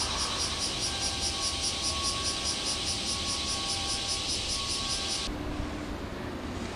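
A cicada singing in rapid, even pulses, about seven a second, that stop suddenly about five seconds in, over a steady low rumble.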